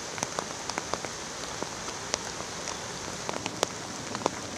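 Steady rain falling, a constant hiss with many sharp drop ticks scattered through it.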